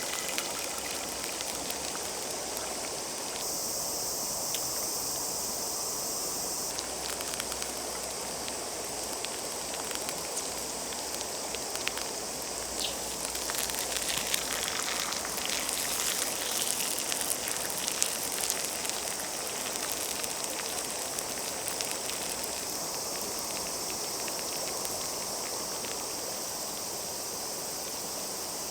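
Bacon and eggs frying in a pan over a wood campfire: a steady sizzling hiss with scattered crackles, busiest about halfway through.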